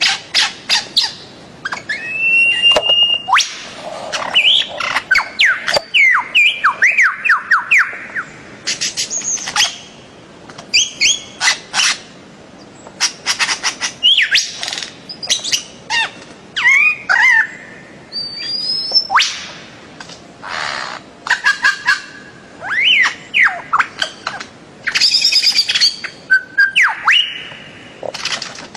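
Birds calling: rapid runs of sharp chirps and whistled notes that slide up and down, in phrases with short pauses between them.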